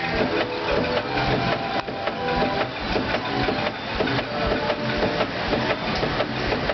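Frick steam traction engine driving a belt-powered sawmill, running with a dense, rapid mechanical clatter and a humming tone that comes and goes.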